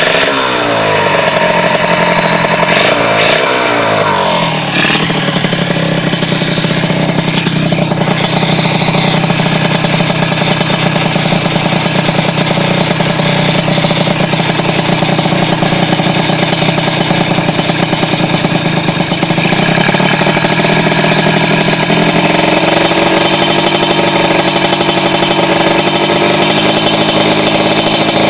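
Kawasaki Ninja R's two-stroke single-cylinder engine breathing through an aftermarket Creampie exhaust, being warmed up. It is blipped in a few quick revs over the first four seconds or so, then settles into a steady idle.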